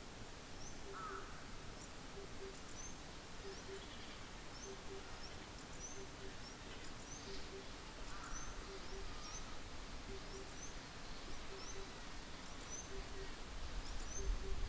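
Small birds calling outdoors: short high chirps repeating every second or so, with a couple of lower calls. A steady hiss of outdoor noise lies underneath.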